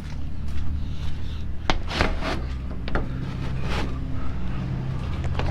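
A motor vehicle's engine idling steadily, with several sharp clicks and knocks over it; the loudest knock comes right at the end.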